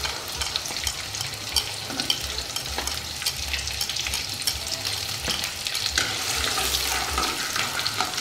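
Shallots, garlic, chillies and lime leaves sizzling in hot oil in an aluminium wok as they start to sauté, a steady hiss with many small pops and clicks while tongs stir them.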